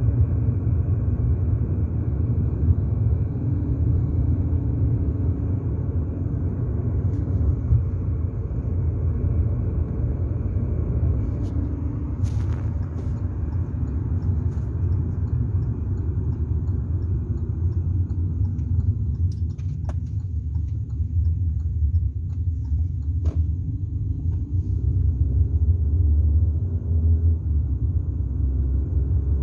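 Steady low rumble of a running vehicle, with a few faint clicks and ticks around the middle.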